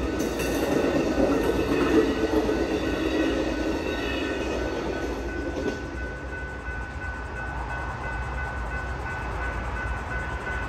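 Amtrak passenger train passing at speed through a road crossing: steady rumble of wheels on the rails, loudest in the first half, dropping off about six seconds in as the train goes by, with a steady high tone carrying on afterwards.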